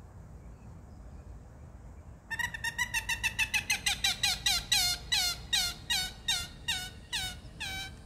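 A bird calling: a long series of sharp, downslurred notes that starts about two seconds in, fast at first and slowing to about three notes a second.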